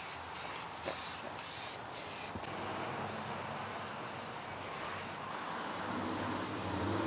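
Aerosol spray can spraying, hissing in short repeated bursts about twice a second at first, then in longer, steadier sprays with a few brief pauses.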